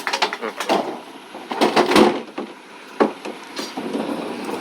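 Knocks and scraping clatter of hard junk being handled, loudest about a second and a half to two seconds in, with one sharp knock about three seconds in.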